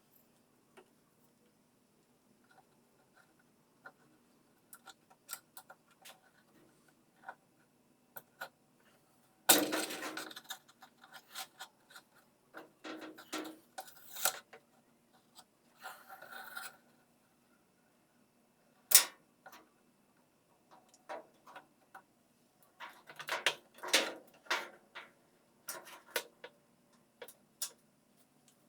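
Scattered clicks, knocks and rubbing of washing-machine parts and hand tools being handled, with no steady machine sound. A sharp knock about nine and a half seconds in and another about nineteen seconds in are the loudest, with a quick run of clicks near the end.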